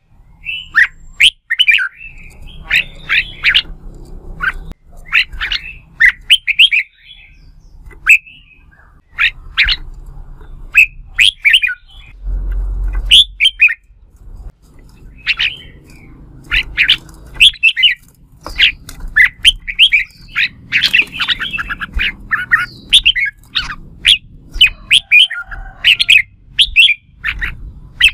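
Red-whiskered bulbuls singing a competitive fighting song: loud, fast bursts of short, sharp whistled notes with brief pauses between the phrases.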